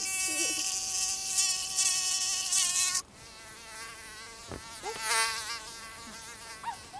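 Mosquito whining in flight: a high buzzing tone that wavers in pitch as it moves. It is close and loud for about three seconds, then suddenly drops to a fainter whine that drifts nearer and farther.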